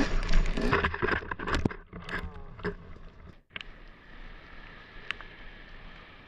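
Dirt bike riding over rough muddy ground: engine noise with rapid clattering knocks for the first two seconds, fading. About three and a half seconds in the sound cuts out, and a steady soft hiss follows.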